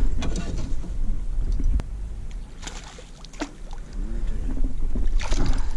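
Low steady rumble of wind and boat noise on the microphone, with a sharp click a little under two seconds in and a few brief splash-like hisses, as a hooked bass is brought to the boat.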